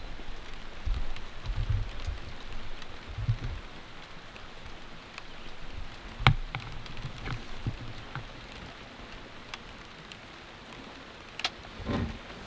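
Steady rain falling, with individual drops ticking sharply here and there, the sharpest about six seconds in, and a few low thumps in the first few seconds.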